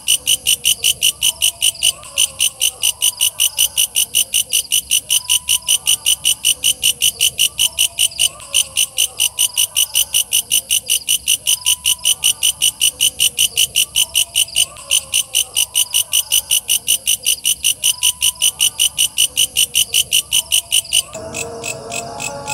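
Walang kecek katydid calling: a fast, even train of shrill chirps, about four a second. About a second before the end the chirps drop in level and a different, lower sound comes in.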